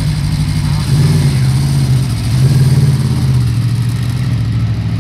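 Aprilia RSV4 V4 motorcycle engine idling steadily, with two slight rises in engine speed about one second and two and a half seconds in.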